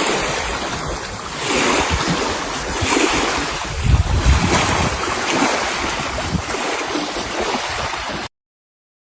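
Sea water washing with wind buffeting the microphone, in slow swells; the sound cuts off abruptly near the end.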